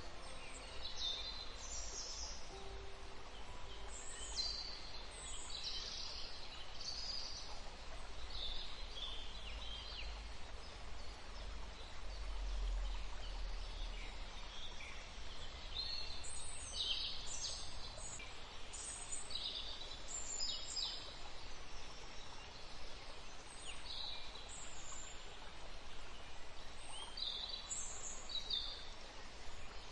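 Nature ambience: scattered short, high-pitched bird chirps over a steady background hiss.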